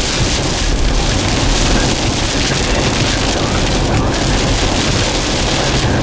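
Heavy rain and wind hitting a moving car on a wet road, heard from inside the cabin as a loud, steady rush.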